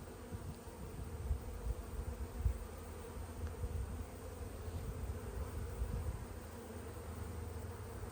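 Honey bees buzzing around an open hive, a steady hum, with irregular low bumps through most of it.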